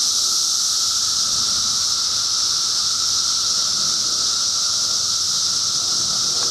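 Dense chorus of cicadas: a constant, unbroken drone with a steady mid-pitched whine under a loud high hiss.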